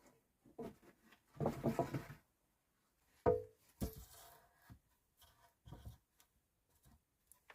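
Scattered knocks, taps and rubbing of objects being handled, with a rustle a couple of seconds in and a sharp knock about three seconds in that rings briefly, followed by a second knock.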